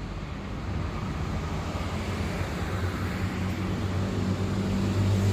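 Steady vehicle rumble with a low hum that grows louder, then cuts off abruptly at the very end.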